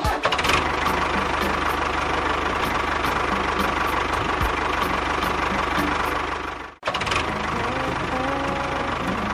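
Small motor of a miniature DIY model construction machine running steadily with a rapid rattling clatter. It cuts out abruptly about two-thirds of the way in and starts again straight away.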